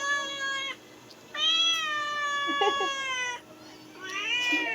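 Domestic cat meowing: the end of one long call, then a drawn-out meow of about two seconds, then a shorter meow that rises and falls in pitch near the end.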